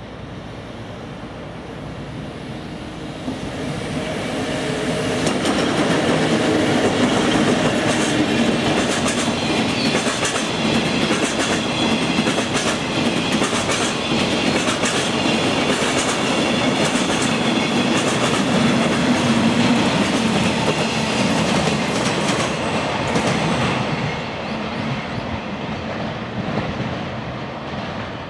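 EF65 electric locomotive and a long train of empty flat freight wagons passing close by, wheels clattering over the rail joints in a fast run of clicks. It builds up over the first few seconds, stays loud, then drops away after about 24 seconds as the last wagon goes by.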